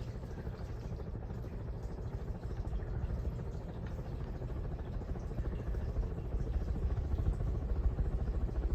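Harbor Breeze Galileo ceiling fan running on high: a steady low rumble of moving air from the blades, gradually getting louder.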